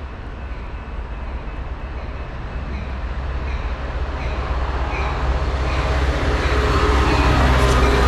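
Metra commuter train on the BNSF line approaching, a low rumble growing steadily louder.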